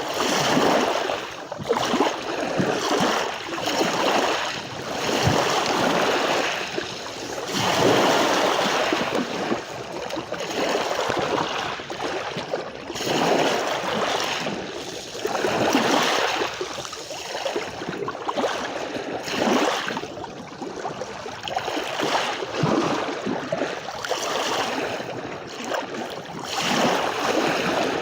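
Sea waves washing onto a beach, the surf rising and falling in overlapping surges every couple of seconds.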